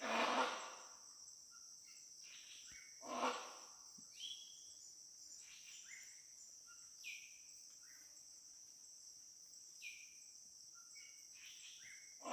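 Great hornbill giving loud, harsh calls: one at the start, one about three seconds in and one at the end, over a steady high drone of insects. Short falling whistles of other birds come in between.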